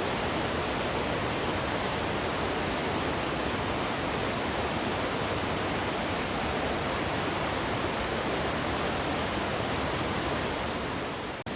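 Steady, loud rush of water from a river pouring down near a waterfall, an even hiss with no breaks.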